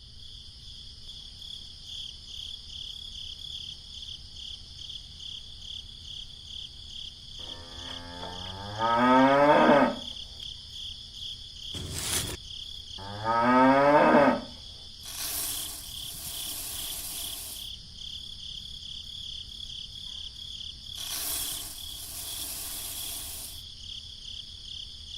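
A cow moos twice, two long calls a few seconds apart, over steady cricket chirping.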